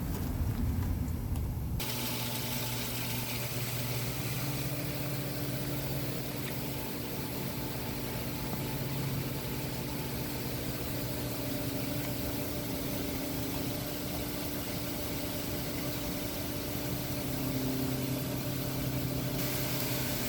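Window air conditioner running: a steady compressor hum under the rush of its fan. About two seconds in, the sound changes suddenly to this steady hum and airy noise.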